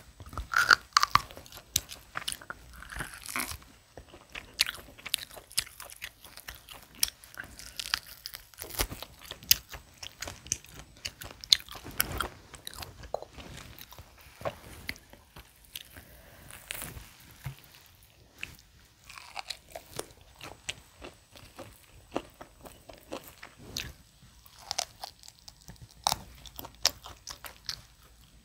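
Close-miked eating sounds: a person biting and chewing food, with many short, irregular mouth clicks.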